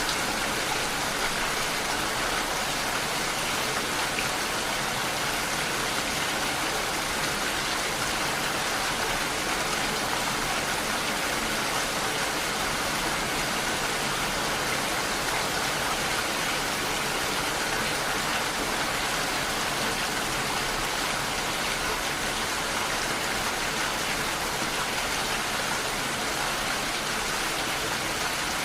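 Steady rain, an even unbroken hiss of falling water without thunder.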